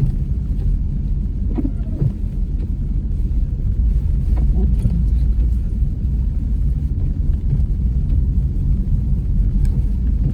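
Car driving along a road, a steady low rumble of engine and road noise.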